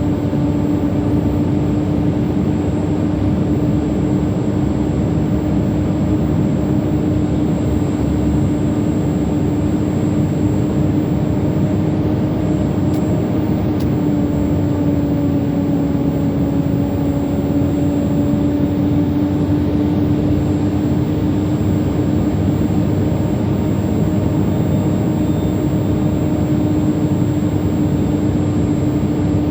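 Heavy truck's diesel engine droning steadily in the cab while pulling a heavily loaded trailer, at its limit. A steady hum sits over the engine noise and drops slightly in pitch about halfway through.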